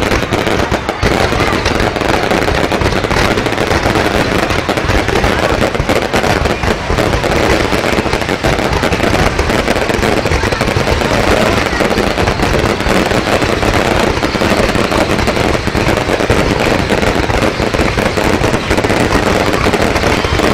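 Fireworks display: a dense, unbroken barrage of bangs and crackles, loud and steady throughout.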